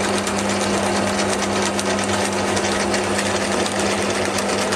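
Drill press running with a steady motor hum as it bores a hole through a piece of pallet wood.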